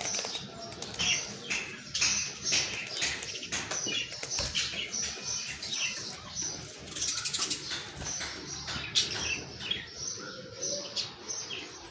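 Budgerigars chattering, with many short, overlapping chirps and warbles running on without a break.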